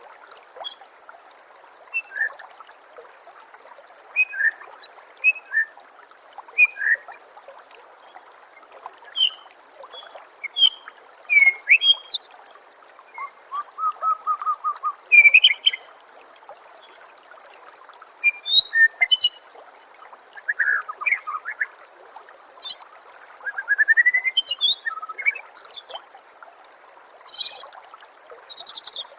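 White-rumped shama (murai batu) singing in short, varied whistled and chirping phrases a second or two apart, over a steady trickle of running water.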